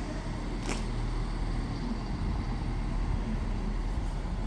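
Class 170 Turbostar diesel multiple unit standing with its engines running, a steady low rumble. There is a single sharp click about two-thirds of a second in.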